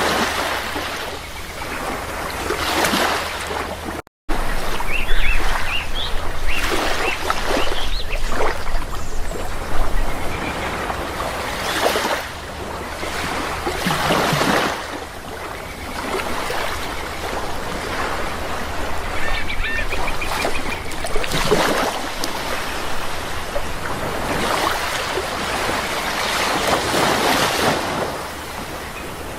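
Sea waves washing in and breaking in repeated surges, with bird calls rising above them a few times, around five to eight seconds in and again near twenty seconds. The sound cuts out for a split second about four seconds in.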